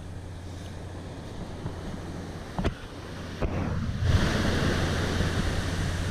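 Sea waves washing up on a beach, with wind rumbling on the microphone. Two short knocks come in the middle, and a louder wave rushes in about four seconds in.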